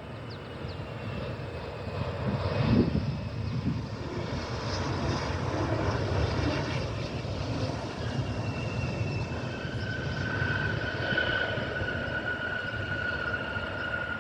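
Bombardier CRJ-900 regional jet's twin turbofan engines on approach: a steady rumble under a high engine whine that drifts slightly lower in pitch, swelling about two to three seconds in.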